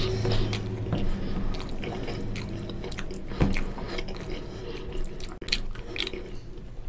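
Close-miked chewing of a mouthful of oily mutton curry and rice, with wet squishing and clicks as bare fingers mix rice into the gravy on a steel plate. A steady low hum runs underneath.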